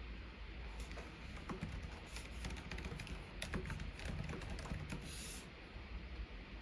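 Quiet typing on a computer keyboard: an irregular run of light key clicks that stops near the end.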